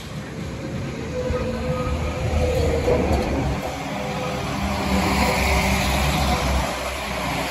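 Northern Class 195 diesel multiple unit passing close by: a steady diesel engine drone with rail and wheel rumble, growing louder over the first few seconds and then holding loud.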